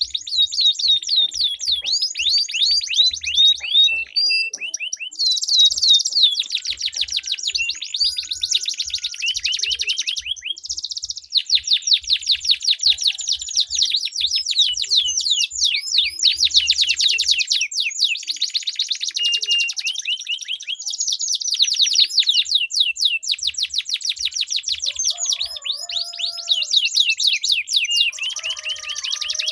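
Domestic canaries singing against each other in long rolling trills: fast runs of repeated high, bright notes that change phrase every few seconds, with brief pauses.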